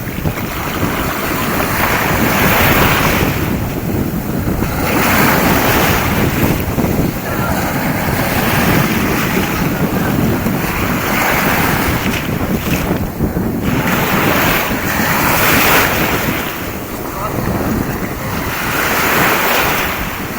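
Strong wind buffeting the microphone over the wash of sea waves, the noise swelling and easing every few seconds.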